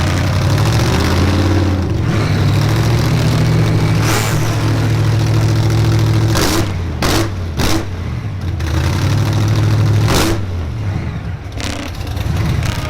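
Heavy truck's diesel engine running under load, its pitch stepping and gliding up and down. About five short, sharp bursts of hiss cut across it partway through.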